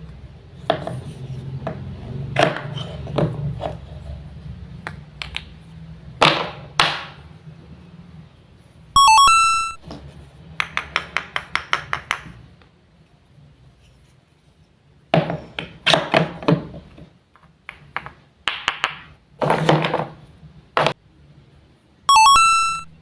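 Toy wooden fruits and vegetables being cut with a wooden toy knife on a wooden board, making irregular knocks and clusters of quick clicks. A bright chime rings twice, about nine seconds in and again near the end.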